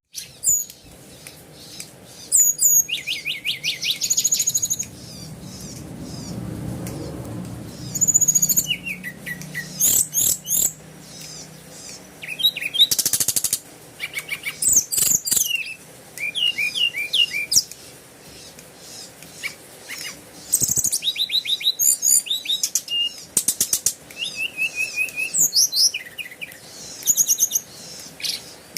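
A small songbird singing in bursts of high chirps and rapid trills, in short phrases with brief pauses between them.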